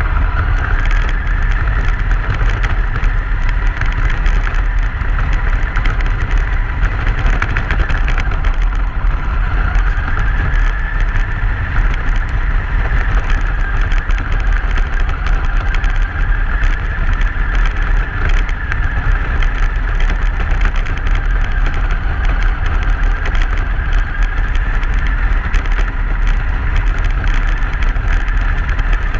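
Truck driving on a snowy road: steady road and drive noise with a strong low rumble and a higher band of noise that drifts slightly in pitch.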